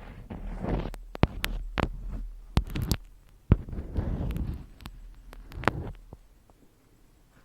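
Close-miked ASMR handling sounds: sharp taps and clicks over swells of rustling and scratching, dying down near the end, with a faint steady low hum underneath.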